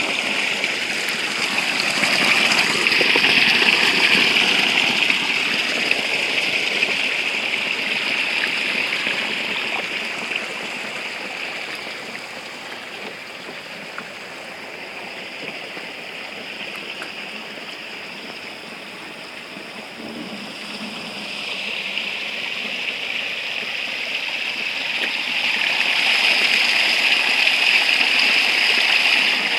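Spring water running and splashing in a steady stream. It is louder for the first several seconds, drops to a quieter flow in the middle, and swells again near the end.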